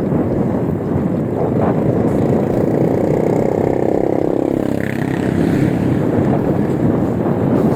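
Wind rushing over the microphone while riding, with a motor vehicle's engine passing close by in the middle, rising and then fading.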